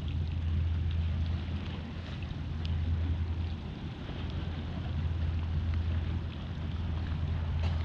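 A steady low drone with wind on the microphone and faint ticks of water against a kayak, dipping briefly about four seconds in.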